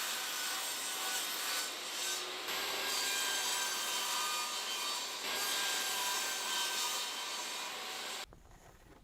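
Steady abrasive rubbing of a part being worked, such as sanding, filing or brushing, with brief dips about two and a half and five seconds in.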